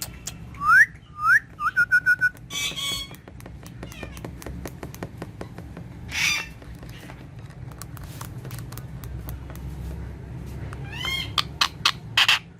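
Indian ringneck parakeet whistling: two curving whistled glides and a quick run of short chirps in the first two seconds, then a harsh squawk about six seconds in, with more whistles and squawks near the end.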